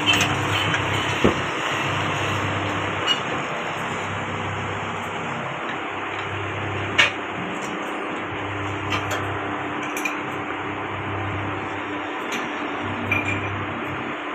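Occasional sharp metal clinks and taps from tools at work on a motorcycle's swing arm, a handful of single strikes spread out, the loudest about halfway through, over a steady background hum.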